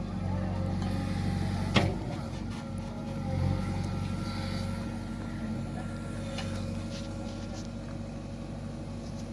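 Backhoe loader's diesel engine running steadily while it works, with one sharp knock a little under two seconds in.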